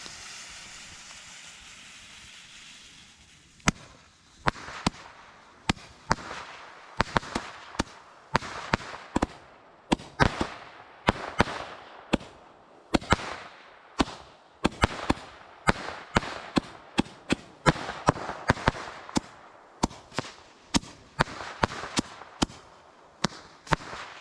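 Consumer fireworks going off: a hissing burn for the first few seconds, then a long irregular string of sharp bangs, about two a second, each trailed by a hiss.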